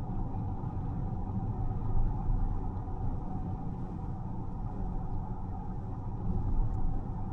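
Steady low rumble of a car on the move: tyre and road noise, with slightly louder bumps about two seconds in and again near the end.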